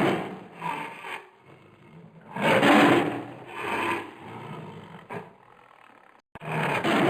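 An animal's rasping, roar-like calls in bursts of about half a second to a second. The same pair of calls comes again after a sudden cut near the end.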